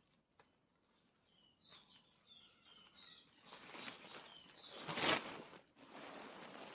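Small birds chirping in short high notes, then a rustling, scraping noise from the plastic sack and soil being handled, loudest about five seconds in.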